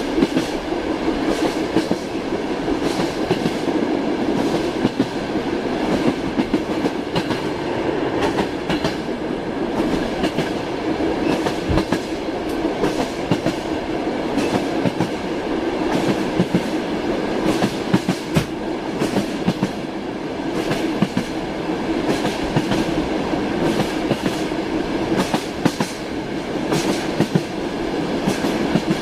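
Train wheels clattering over rail joints as the carriages roll along, a steady rumbling hum broken by frequent sharp clacks.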